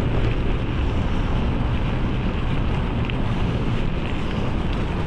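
Steady wind rumble on the microphone of a mountain bike in motion, a constant low noise with no distinct events.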